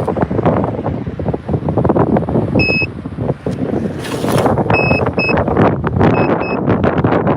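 Strong wind buffeting the microphone with heavy, gusty rumbling. Short high-pitched beeps cut through several times in the second half.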